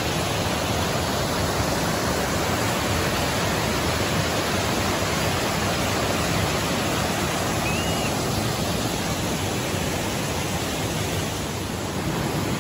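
Rushing water of a gorge stream: a steady, even rush.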